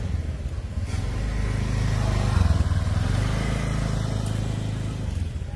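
An engine running with a low hum that swells to its loudest about two and a half seconds in, then eases off.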